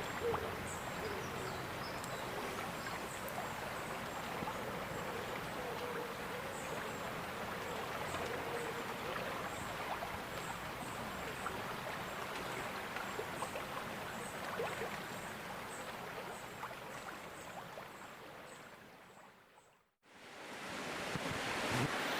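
River Tay flowing, a steady rushing of water with faint high chirps repeating above it; it fades out near the end and the rushing comes back up.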